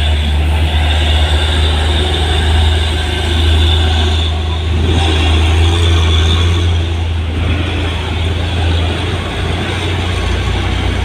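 Heavy truck's diesel engine running with a loud, steady low drone, easing off a little in the last few seconds.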